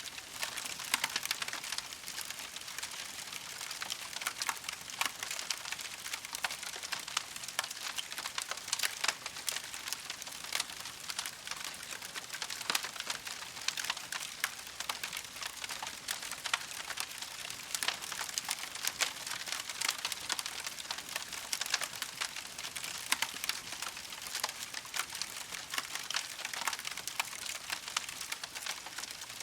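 Campfire wood burning with steady, dense crackling and small pops.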